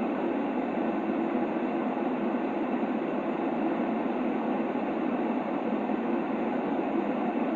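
A steady sleep white-noise track: an unbroken, even rushing noise, strongest at low-middle pitches, with little high hiss or deep rumble.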